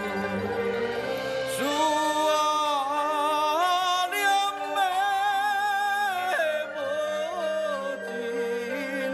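Taiwanese opera (gezaixi) singing: a voice sings a long phrase of held, wavering notes over instrumental accompaniment, starting about a second and a half in and ending about two-thirds of the way through.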